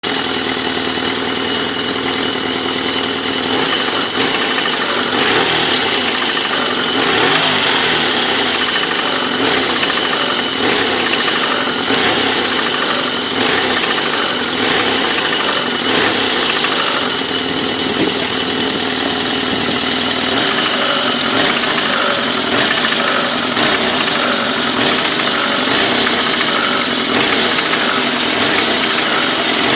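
Car engine running steadily with a knock coming from the top of the engine above the first cylinder. Sharp knocks stand out over the engine sound about every second and a quarter.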